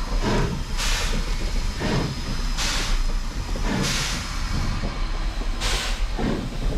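Narrow-gauge steam locomotive letting off steam in a series of short hissing bursts, about one every second or two, over a steady low rumble.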